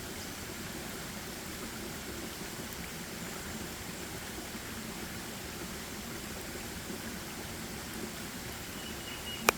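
Steady forest ambience: an even background hiss, with a faint short high chirp near the end and a single sharp click just before it ends.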